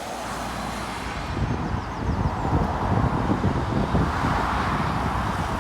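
Road traffic passing close by, swelling to its loudest past the middle as a vehicle goes by, with wind buffeting the microphone.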